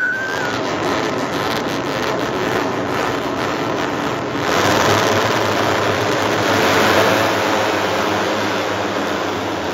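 Loud, rushing vehicle noise that swells about four and a half seconds in and eases off near the end.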